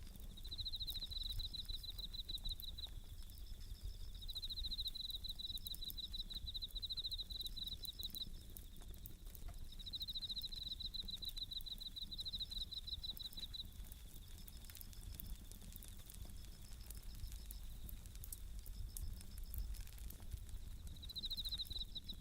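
Japanese bell crickets (suzumushi) chirping in repeated high, fast-pulsed trills of a second or two each, over a wood campfire crackling with small sharp pops throughout.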